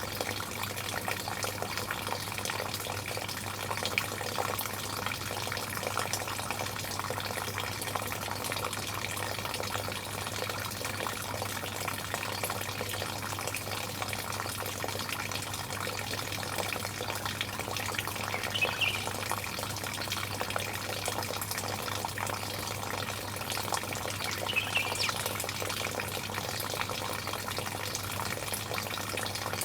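Steady running, splashing water over a low hum, with a bird briefly chirping twice, about two-thirds of the way in and again near the end.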